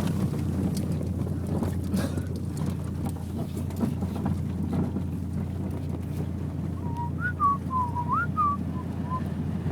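Rover 414 running with a section of its exhaust missing, a steady low drone as it is driven. A short warbling whistle comes in about seven seconds in and lasts a couple of seconds.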